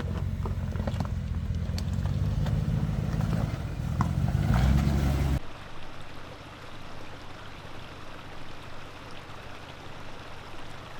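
Off-road SUV crawling slowly down a rocky trail, its engine a steady low rumble with a few faint knocks. About five seconds in it cuts off suddenly to a quieter, steady hiss.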